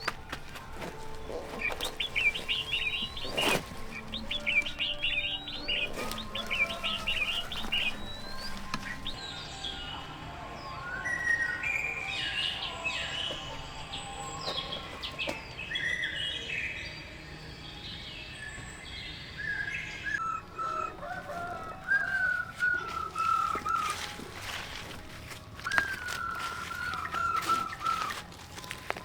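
Small birds chirping and singing, several different calls one after another, high, quick, hooked chirps at first and lower falling phrases later, with a few sharp knocks among them.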